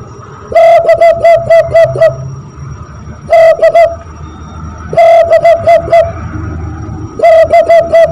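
Zebra dove call imitated by blowing through cupped hands: four runs of quick, evenly repeated hollow coos, one after another.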